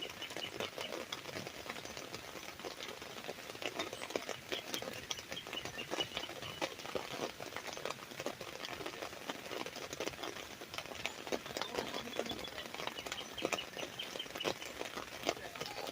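Rain drops pattering steadily on an umbrella canopy, with birds chirping in short repeated notes in the background.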